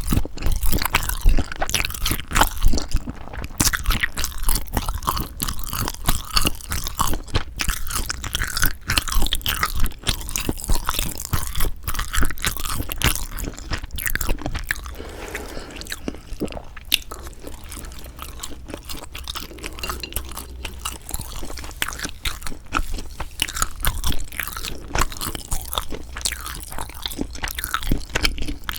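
Close-miked chewing and biting of sundae, Korean blood sausage: a dense, irregular run of wet mouth clicks that thins out for a few seconds midway.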